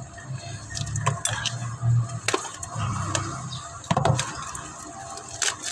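A few sharp knocks and clinks of hard parts and tools being handled, the loudest about two seconds and four seconds in, over a faint low hum.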